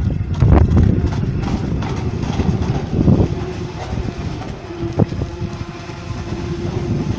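Radio-controlled fishing bait boat's electric motor running, a steady whine that comes in about halfway, over a low rumble of wind on the microphone and a few knocks.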